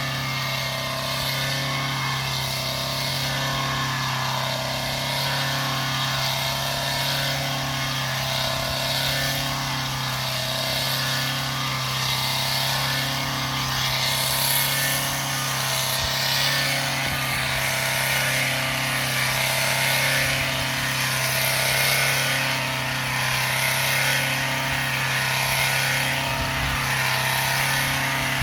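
Engine running steadily at a constant speed, a steady hum with no revving or stops.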